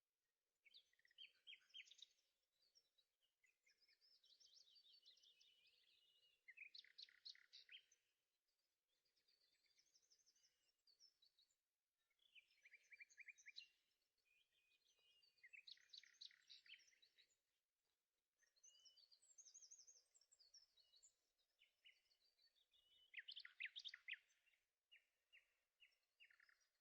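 Faint birdsong: a songbird singing varied phrases of quick chirps and trills, a new phrase every couple of seconds with short pauses between.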